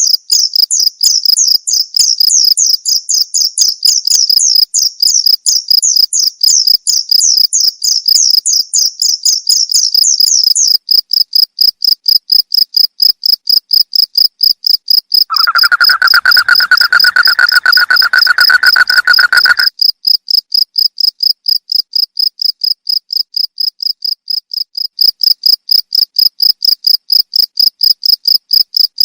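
Crickets chirping in fast, even pulses. For roughly the first third a second, higher chirping voice overlaps them, and about halfway through a lower trill joins for some four seconds.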